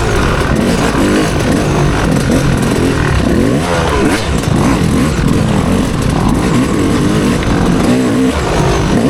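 Motocross bike engine revving hard under race load, its pitch climbing and dropping over and over as the throttle is worked and the gears change.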